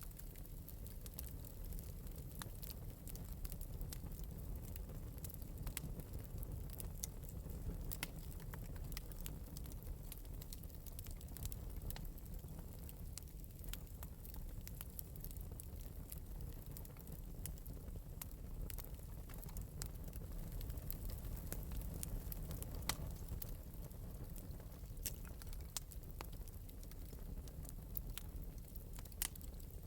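Wood fire burning in an open metal fireplace, lightly crackling: scattered sharp pops and snaps over a steady low rumble of the flames.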